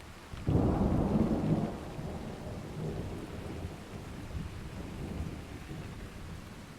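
Steady rain with a clap of thunder that breaks in suddenly about half a second in, stays loud for about a second, then rolls on as a lower rumble that slowly fades.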